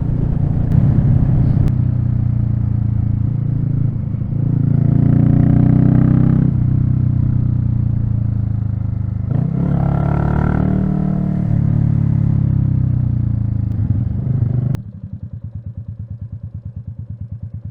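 Royal Enfield Meteor 350's single-cylinder engine running under way, picking up twice as it accelerates. About fifteen seconds in it drops suddenly to a steady, evenly pulsing idle as the bike pulls up.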